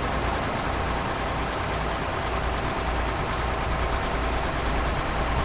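Tanker truck's diesel engine running steadily at a low, gentle throttle, with road noise from the moving truck.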